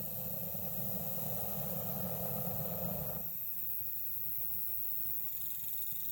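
Campfire burning with a steady hiss and low rumble, its mid-range noise falling away suddenly about three seconds in. A faint insect chirring starts near the end.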